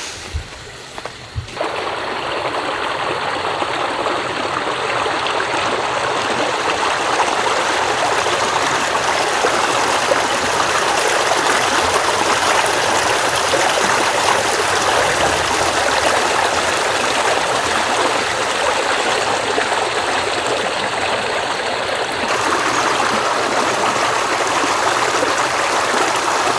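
Steady rushing and splashing of a flowing river or stream, unfrozen in winter, coming in suddenly about a second and a half in after a few soft knocks.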